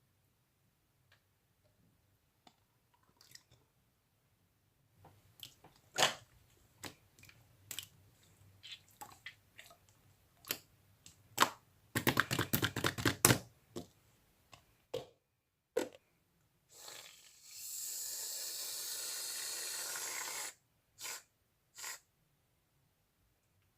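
Scattered clicks and taps of handling, with a quick rattling run of clicks about twelve seconds in. Then a shaving foam aerosol can sprays with a steady hiss for about three and a half seconds and cuts off suddenly.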